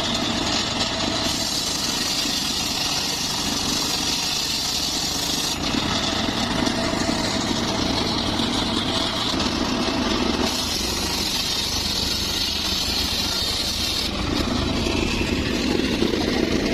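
Engine of a homemade circular saw rig running steadily while the saw cuts mahogany, with a high hiss that comes and goes every few seconds.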